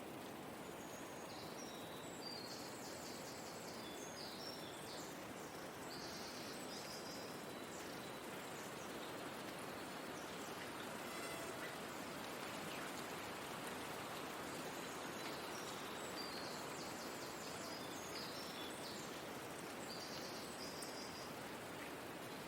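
Forest ambience: a steady, soft rushing noise like a breeze, with small birds chirping in quick high bursts. The chirping comes in two spells, one starting about a second in and one past the middle.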